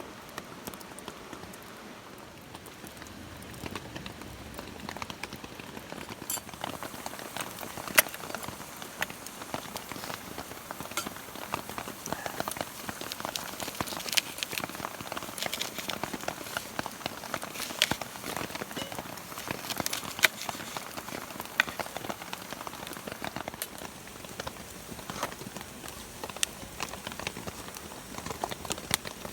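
Steady rain falling, with scattered sharp taps of drops throughout; the loudest comes about eight seconds in.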